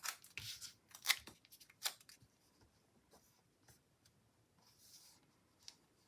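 Stickers and paper being handled on a planner page: a few short sharp clicks and snips in quick succession, a soft rustle, then one more click near the end.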